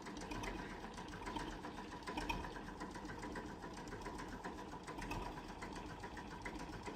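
Faint, steady running of a small engine or machine, with a rapid, even clatter.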